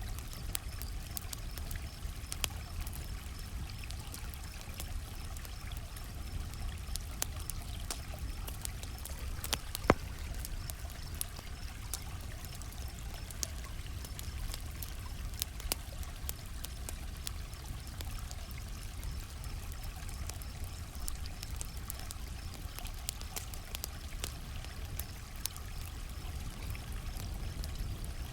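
Campfire crackling, with scattered sharp pops and one loud pop about ten seconds in, over crickets chirping steadily and a low, even rumble.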